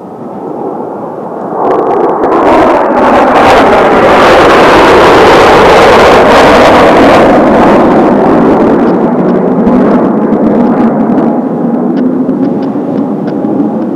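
Four Blue Impulse Kawasaki T-4 jet trainers, twin-turbofan, passing low in formation: the jet roar swells up about two seconds in, holds very loud, then eases off with a falling pitch as the formation goes by.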